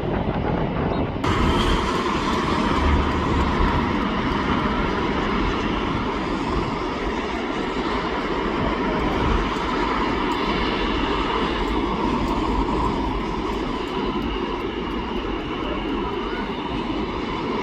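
Jet airliner engines running, a steady rumble with a whine on top. The sound changes abruptly about a second in.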